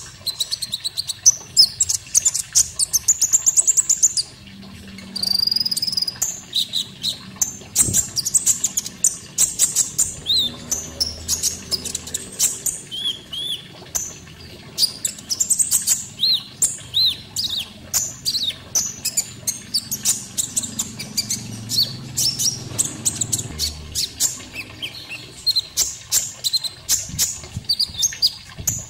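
Konin songbird singing a continuous stream of rapid high chirps, short buzzy trills and quick upslurred whistled notes, the kind of song played to train caged birds.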